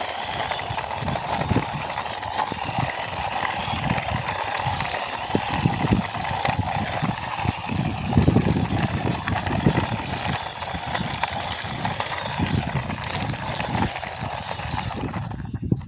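Plastic wheels of a toy motorbike rolling and clattering as it is pushed by hand across a hard floor, a steady rumble with irregular knocks that stops suddenly near the end.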